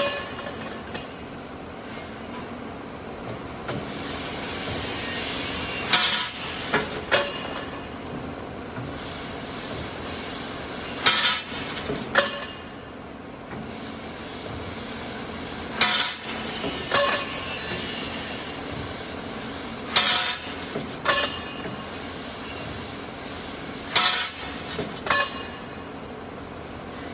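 Semi-automatic tube laser cutting machine running with a steady mechanical hum and a high hiss that switches on and off for a few seconds at a time. Sharp metallic clanks come in pairs about every four to five seconds.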